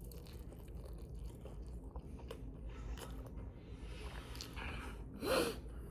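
A person eating close to the microphone: faint chewing and mouth clicks over a low steady hum, with one louder brief mouth sound about five seconds in.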